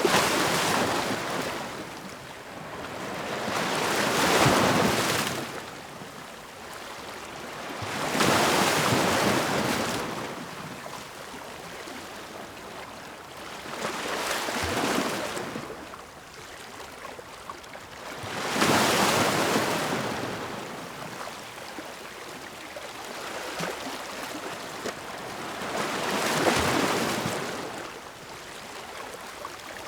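Ocean waves breaking on the shore in slow surges every few seconds, each rising to a crash and washing back before the next one.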